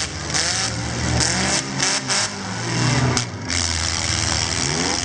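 Several demolition derby car engines running together, revving up and down with overlapping rising and falling pitch, with a few short bursts of harsher noise about one to three seconds in.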